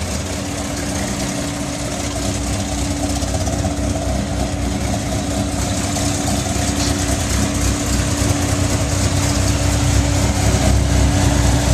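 Dodge Viper GTS 8.0-litre V10, with ported heads, a custom-ground cam, long-tube headers and a Corsa exhaust, running at idle as the car rolls slowly closer, growing gradually louder.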